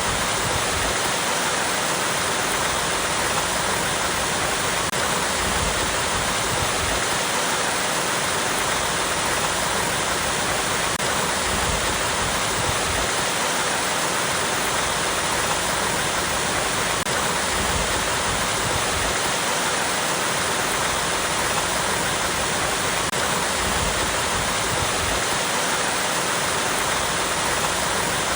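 Small waterfall cascading over rocks, a steady, even rush of falling water.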